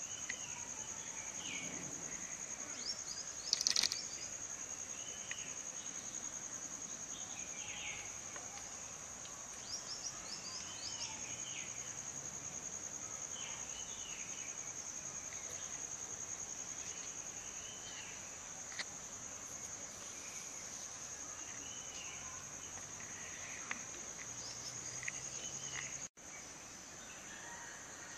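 A steady, high-pitched insect drone, like crickets, with short bird chirps every second or two. A brief louder burst comes about four seconds in.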